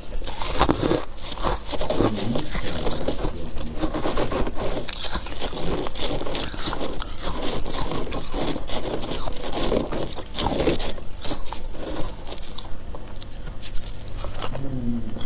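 Freezer frost being bitten and chewed close to the microphone: dense, uneven crunching and crackling, one bite after another.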